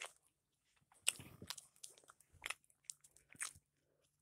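Close-up mouth sounds of a person eating: crisp crunching bites and chewing, a handful of sharp crunches with quiet gaps between them.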